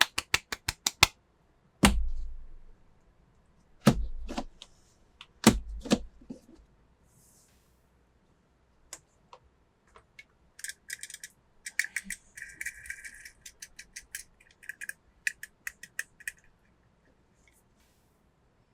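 Small hard plastic and die-cast toy cars being handled: a quick run of clicks, then four heavier knocks as they are set down on a hard surface. Later comes a stretch of crinkling and rattling, like toy packaging being handled.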